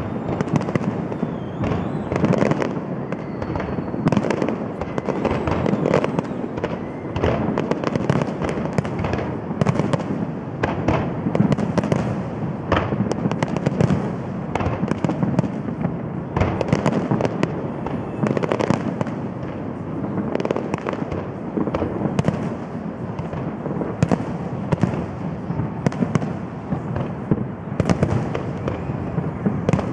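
Aerial fireworks display: a dense, unbroken barrage of shell bursts, with many sharp bangs in quick succession over a continuous rumble.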